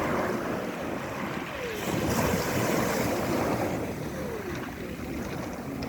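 Rough sea surf washing onto a pebble beach, swelling as waves come in near the start and again about two seconds in, with wind buffeting the microphone.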